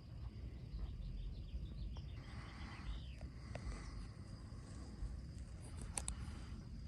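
Quiet rural evening ambience: a faint steady insect trill and a few short bird chirps about two to three seconds in, over a low rumble, with a couple of sharp clicks near the end.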